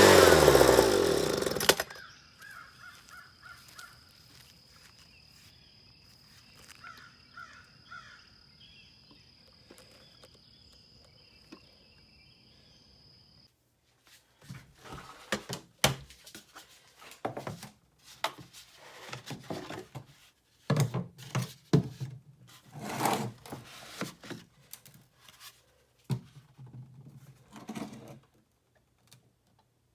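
Leaf blower being switched off, its engine note falling in pitch and dying out about two seconds in. Faint bird chirps follow, then from about halfway a run of irregular knocks and clatters of handling.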